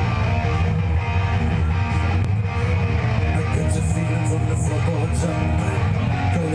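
Live rock band playing: strummed electric guitar over a heavy, steady bass, with bright treble hits repeating from about halfway through. No vocals are heard.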